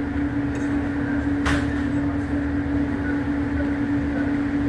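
Steady mechanical hum: one constant tone over a low, even rumble, with a single sharp click about a second and a half in.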